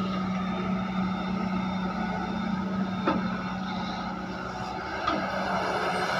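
Heavy excavator's diesel engine running steadily under work, with two short clanks about three and five seconds in.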